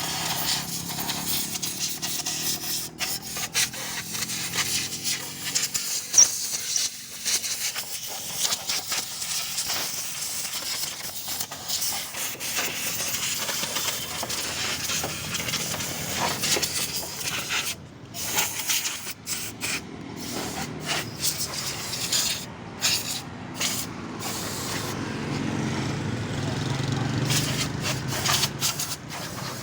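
Spray nozzle hissing against a motorcycle during washing, cutting out briefly several times in the second half. A low motor hum comes up near the end.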